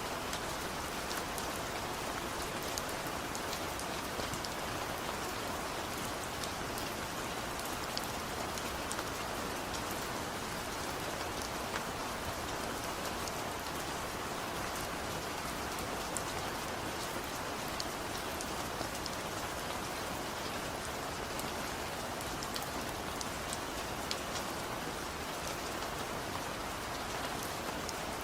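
Steady gentle rain falling, an even hiss with the patter of many small drops and no thunder.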